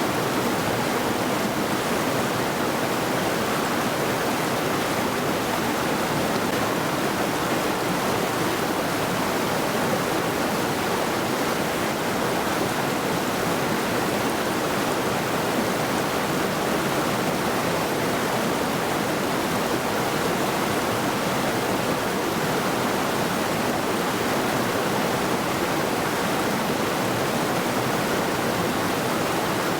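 Middle Saluda River, a rocky mountain river, rushing steadily over stones: an even, unbroken water noise.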